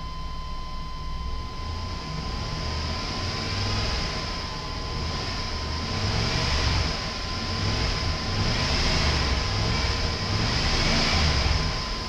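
1996 Chevrolet Silverado 1500's 5.7-litre V8 running and being revved several times, the engine speed rising and falling in waves. It revs up nice and smooth.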